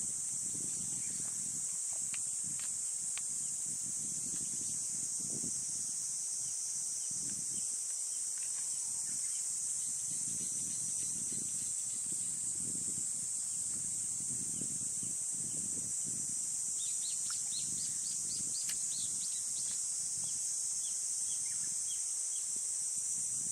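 A steady, high-pitched drone of insects, with a bird giving a quick run of short chirps about two-thirds of the way through.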